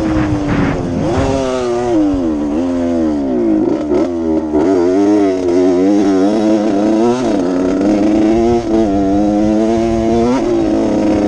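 Honda CR80 two-stroke motocross bike engine being ridden hard, revving up and falling back again and again as the rider works the throttle.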